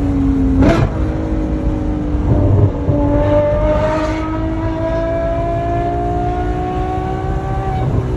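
Ferrari 812 GTS's naturally aspirated 6.5-litre V12 accelerating, its pitch climbing slowly and steadily, then dropping suddenly near the end. There is a brief sharp burst about a second in.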